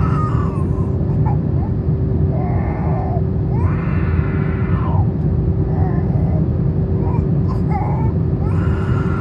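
Steady low rumble of engine and airflow noise inside an Airbus A321 cabin on descent, with a constant hum under it. Over it a baby cries and wails in short bursts every second or two.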